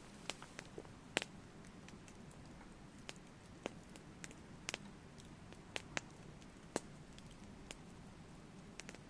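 Wood fire crackling: irregular sharp pops and snaps over a faint steady low hiss, with the loudest pop about a second in.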